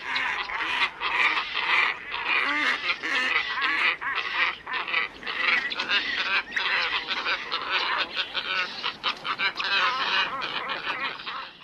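Glossy ibis flock calling: many overlapping calls without a pause, played as a bird-lure recording.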